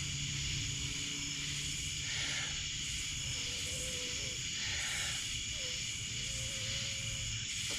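Steady, shrill chorus of night insects in the woods, over a low steady hiss. A faint wavering tone comes and goes twice in the middle.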